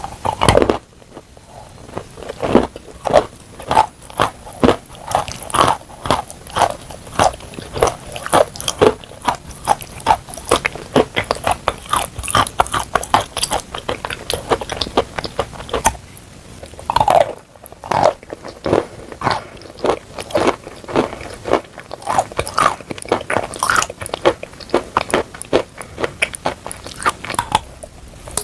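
Close-miked biting and chewing of chalk coated in clay paste: a dense run of crisp crunches, several a second, with brief pauses near the start and about two thirds of the way through.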